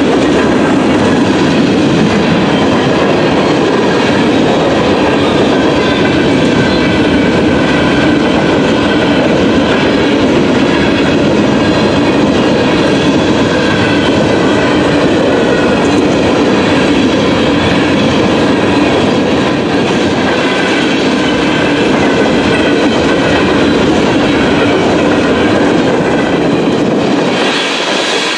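Freight train of gondola and hopper cars rolling steadily past at a grade crossing: a continuous rumble of steel wheels on the rails with a rhythmic clatter over the rail joints, easing slightly near the end.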